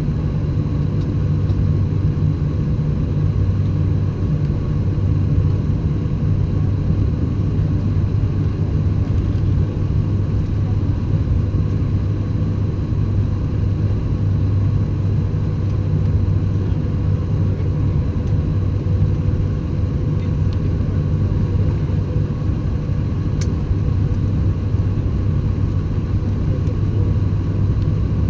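Airbus A350 cabin noise heard from a window seat: a steady, loud, low rumble from the engines and airflow, with faint steady tones above it.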